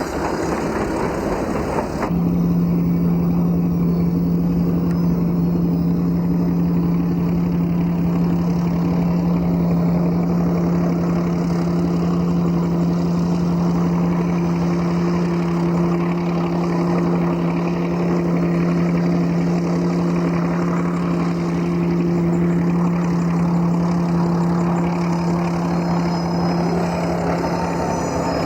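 Old Baldwin diesel locomotive engine running steadily with a deep, even, pitched drone. About two seconds in the sound changes abruptly and grows louder, and a second, higher tone joins about ten seconds in.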